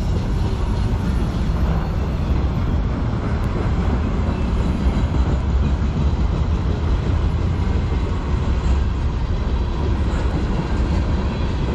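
Freight train cars rolling past on the rails, auto racks and then tank cars: a steady rumble of steel wheels on track.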